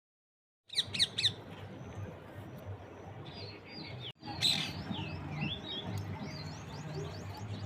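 Birds chirping and calling in quick, short chirps that sweep up and down in pitch, over a low steady background sound. The sound starts abruptly just under a second in and breaks off for an instant about four seconds in.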